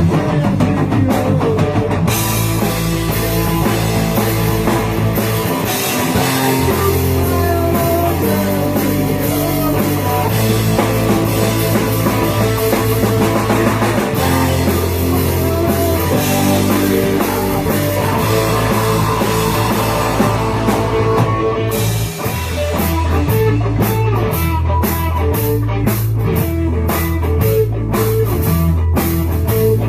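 Rock music from a full band, with guitar, bass and a drum kit, and no singing. About three quarters of the way through, the band drops into a choppy stop-start rhythm.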